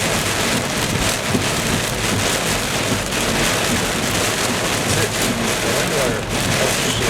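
Heavy, wind-driven rain beating on a car, heard from inside the cabin as a steady, dense hiss.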